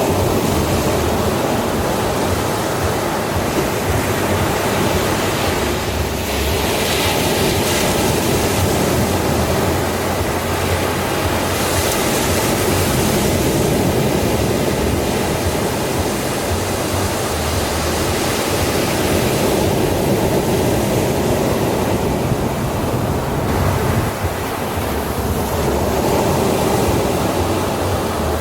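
Ocean surf breaking on a sandy beach: a steady wash of waves that swells a few times as breakers come in.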